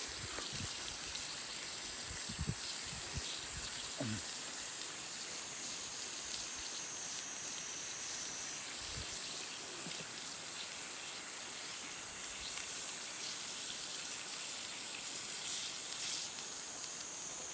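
Steady sizzling hiss of steak cooking on a grill over a campfire, with faint crackles from the fire and a few soft low thumps in the first few seconds.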